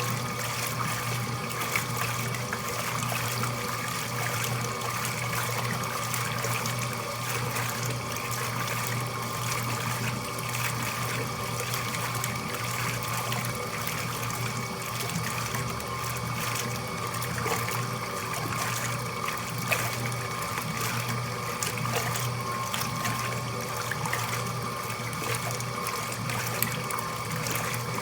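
Laundry machine running steadily: a constant motor hum with a steady whine, over water trickling and splashing.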